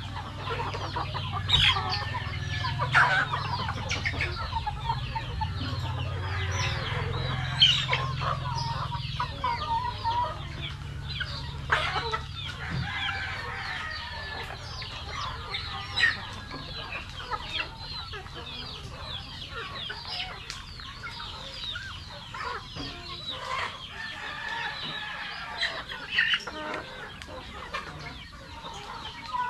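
A flock of Rhode Island Red chickens clucking, many calls overlapping without a break.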